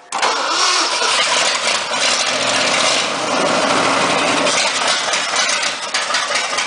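1976 Ford pickup's engine firing on the starter and catching, running loudly on primer fuel with no radiator fitted, then easing off near the end.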